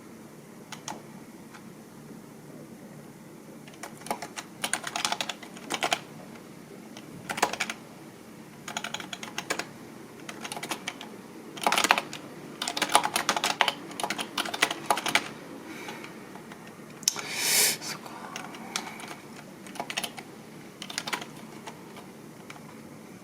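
Typing on a computer keyboard: irregular runs of keystroke clicks with short pauses between them, and a longer, louder burst of noise about seventeen seconds in.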